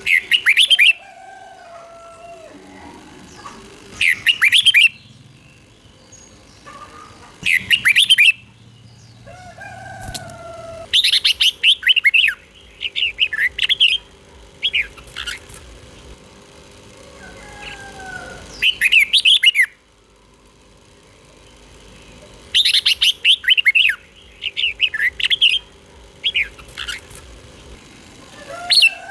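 Red-whiskered bulbul singing: short, loud phrases of quick rippling whistled notes, repeated every few seconds, with longer runs of phrases in the middle and near the end. Fainter, lower sliding whistles sound between the phrases.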